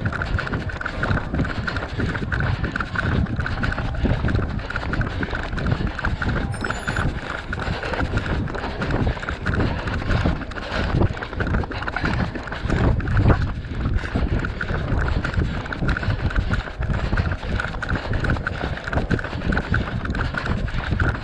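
A runner's footsteps in a steady stride rhythm, with the GoPro camera he carries jolting at each step, and wind on the microphone.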